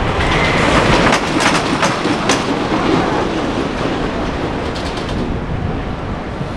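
Amusement ride train running on its rails, with bunches of sharp clicks from the wheels over the track about a second in and again near five seconds.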